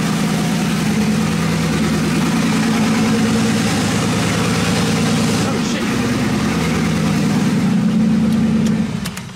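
Twin-turbo LS V8 idling steadily while it warms up on a freshly installed self-learning Holley Terminator X ECU, with a loud hiss over the engine note, as water sprays as vapour out of the engine bay. The sound fades away near the end.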